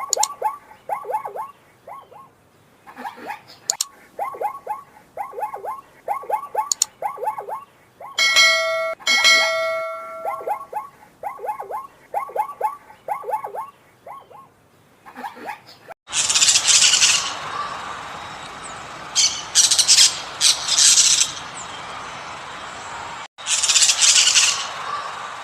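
Birds calling: a rapid run of short, downward-sliding chirps, broken about a third of the way in by two brief held calls. About two-thirds of the way in the sound changes abruptly to loud, harsh squawks that come in bursts.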